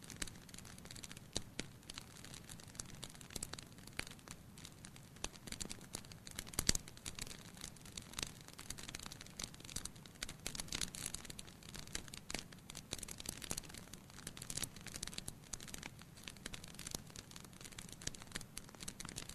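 Wood fire crackling in a fireplace: irregular small snaps and pops over a soft hiss, with one louder pop about a third of the way in.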